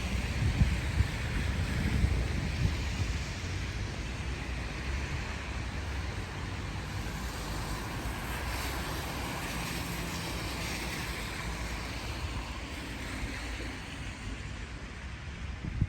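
Cars passing on a wet street, their tyres hissing on the rain-soaked road, with a heavier low rumble in the first few seconds as a vehicle goes by.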